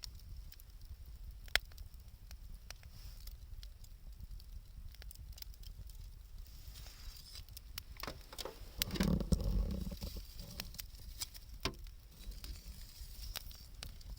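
Wood campfire crackling, with scattered sharp pops. About nine seconds in there is a louder, muffled burst of noise lasting around a second.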